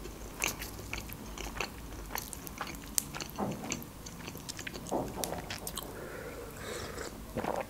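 Close-miked chewing of a crispy toasted lavash wrap, with many sharp little crunches and mouth clicks, then a sip of coffee from a glass mug near the end.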